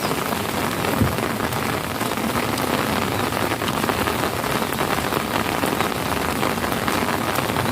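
Heavy rain falling steadily: a dense hiss of drops splashing on wet ground and puddles, with one brief knock about a second in.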